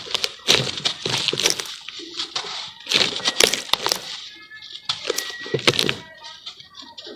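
Charcoal crumbling in water: irregular clusters of sharp crackling and cracking, several crunches a second, coming in bursts with short lulls between.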